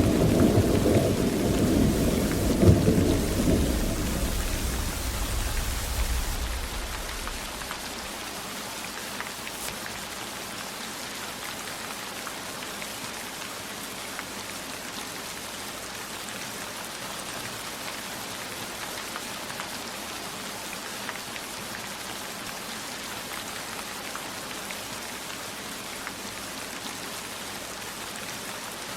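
A thunder rumble over steady rain, with a sharper peak about three seconds in, dying away over the first seven seconds or so. After that there is only steady rainfall.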